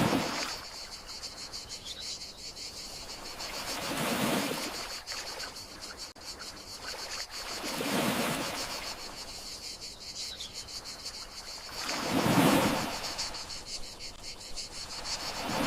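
Gentle sea waves washing in and out, a swell about every four seconds, over a steady high chirring of crickets.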